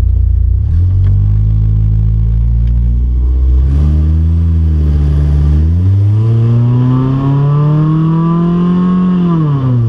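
Car engine accelerating through its rev range on a homemade, budget exhaust: the pitch steps up about a second in and again near four seconds, climbs steadily in the second half to high revs, then falls away near the end as the throttle comes off.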